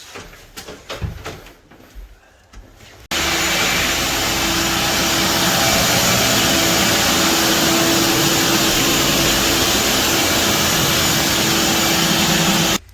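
Vacuum cleaner running steadily with a constant hum, starting suddenly about three seconds in and cutting off just before the end; a few light knocks and clicks come before it.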